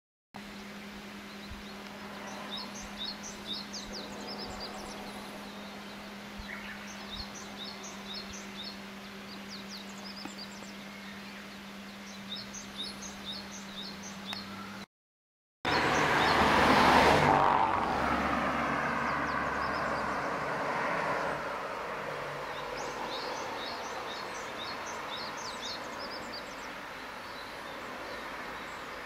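A songbird singing in repeated runs of short high chirps over steady rural background noise, with a low steady hum under the first half. About halfway through, a vehicle passes close by, swelling quickly to the loudest point and then fading over several seconds.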